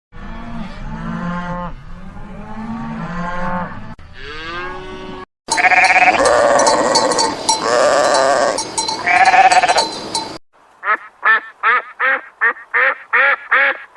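Farm animal calls cut back to back: drawn-out livestock bleats, then louder bleating over clanking bells. From about eleven seconds in, a duck quacks about three times a second.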